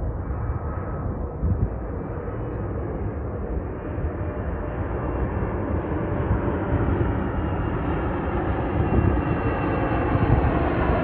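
Boeing 777-300ER airliner approaching to land, the jet noise of its GE90 turbofans growing steadily louder as it comes closer.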